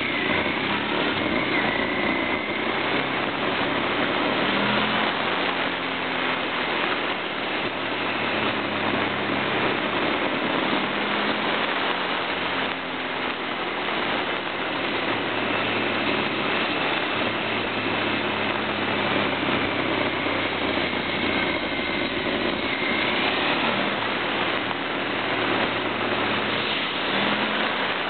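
Motorcycle engine running as the bike rides along, its pitch rising now and then as the rider opens the throttle, under heavy wind rush on a camera taped to the bike's indicator.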